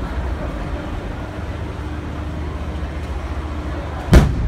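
An aerial firework shell bursts with one loud boom about four seconds in, over a steady low rumble.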